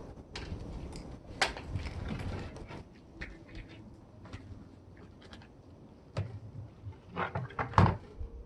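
Scattered clicks, knocks and rattles of hard plastic and metal parts being handled and pried apart while a household appliance is dismantled for scrap, with a quick flurry of knocks near the end.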